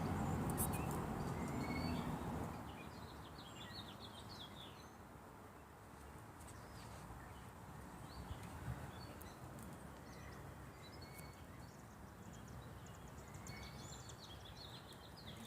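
Faint, scattered chirps and calls of small songbirds over a quiet outdoor background, with a low rumble that fades out about two and a half seconds in.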